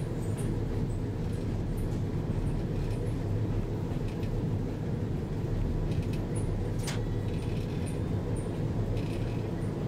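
Steady low drone of a rail vehicle running along the track, engine and wheels rolling, heard from inside the cab. There is a single sharp click about seven seconds in.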